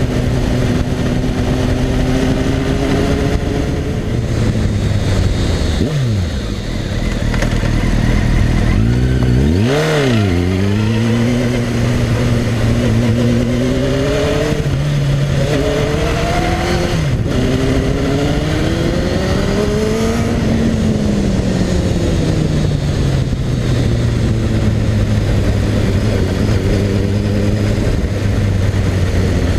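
Honda CBR Fireblade's inline-four engine with an Akrapovic exhaust under way. Its pitch climbs and drops several times as the throttle and gears change, with a quick sharp swoop about ten seconds in. Heard from a camera mounted low by the front wheel, with steady wind and road rush.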